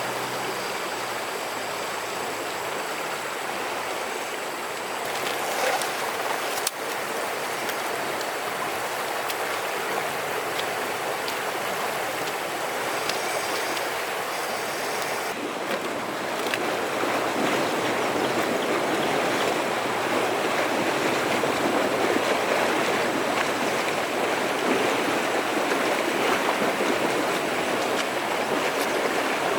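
Flowing river water rushing steadily, growing louder about halfway through, with a brief knock or two early on.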